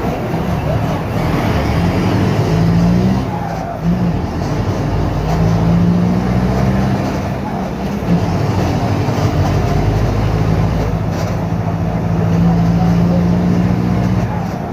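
Mercedes-Benz OF-1721 BlueTec 5 bus's four-cylinder diesel engine running through a holed exhaust. Its note rises, holds steady for several seconds, drops back, then holds steady again.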